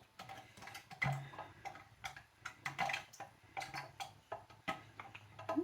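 Irregular light taps and clicks of a plastic mandoline and its pieces as cut cucumber is tipped and knocked out into a bowl.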